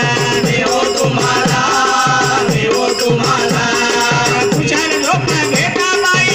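Marathi devotional bhajan music: a hand drum's bass strokes sliding down in pitch about twice a second, under a jingling rattle and sustained melodic notes.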